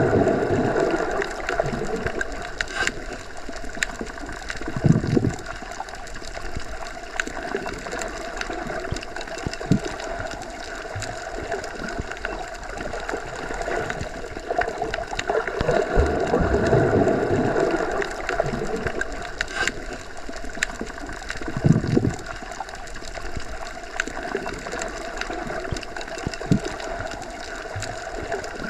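Underwater ambience, as heard with the head submerged: a steady muffled rush of water that swells slowly, with a couple of soft low thumps.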